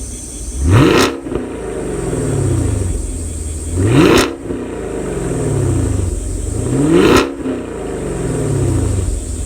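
Chevrolet Camaro SS V8 exhaust at idle, blipped three times: each rev climbs quickly and then falls back slowly to a lumpy idle.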